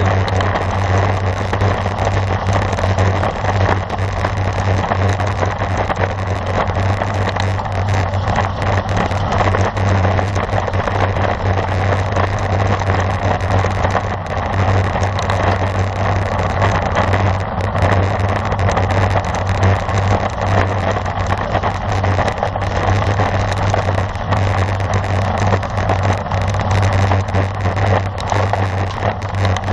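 Wind rushing over the microphone of a camera on a racing bicycle at speed: a loud, steady roar with a deep low rumble.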